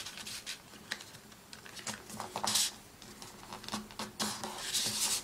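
Sheet of printer paper being handled and folded: short crinkles and taps, with a couple of longer swishes as a crease is pressed down.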